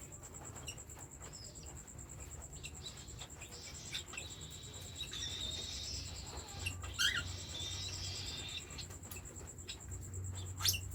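Baby cockatiels chirping and calling, busiest in the middle, with two short sharp calls, one about seven seconds in and one near the end, over scattered soft clicks.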